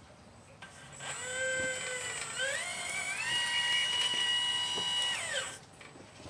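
Small electric motor of a 1/12-scale RC Liebherr 954 excavator whining as it runs, its pitch rising about halfway through and then holding steady before it winds down and stops near the end.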